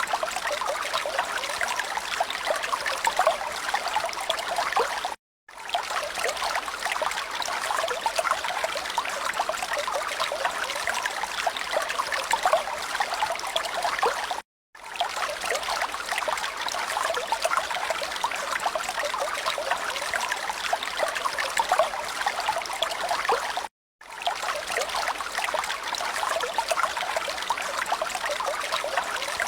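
Steady trickling, babbling water like a small stream, cutting out to silence for a moment three times, about every nine seconds, as if a short recording were looped.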